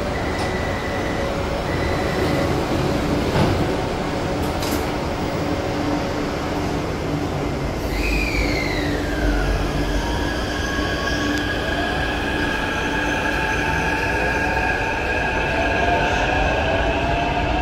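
Taipei Metro Tamsui–Xinyi line train running, with a steady rumble and whine. About eight seconds in, a high squeal glides down in pitch. Near the end, motor whine tones rise in pitch.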